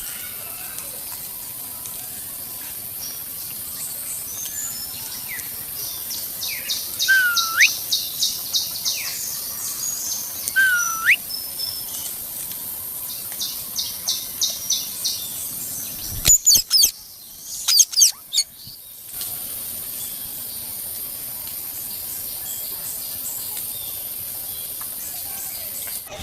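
Parrot chirping and whistling: quick runs of high ticking chirps, two short whistles that dip and then rise, and a few loud shrill calls about two thirds of the way through.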